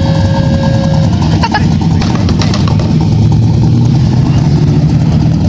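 A vehicle engine running close by, a loud, steady low rumble. A thin steady tone sounds over it during the first second.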